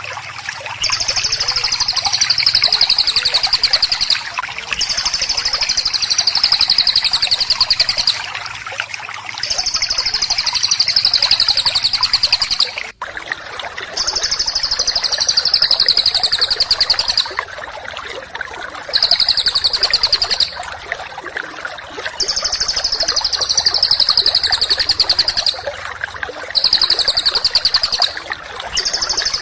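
A small songbird singing a dense, rapid-fire trill of fast repeated high notes, in bouts of two to three and a half seconds with short pauses between, its pitch sinking slightly through each bout. A steady sound of running water plays underneath.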